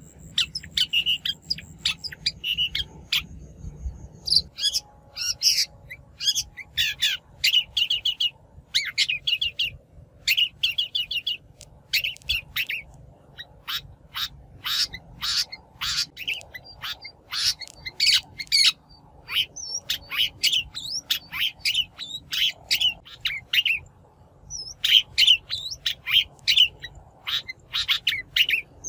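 Shrike calling: rapid runs of short, sharp notes, broken every few seconds by brief pauses.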